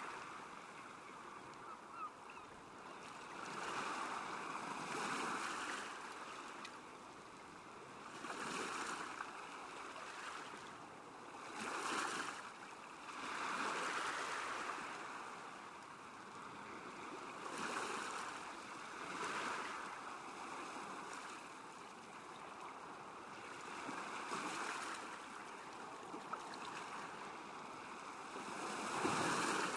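Small waves lapping at a lakeshore, the wash swelling and fading every two to three seconds.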